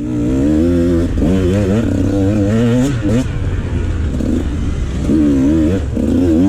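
Dirt bike engine revving, its pitch rising and falling over and over, over a steady low rumble.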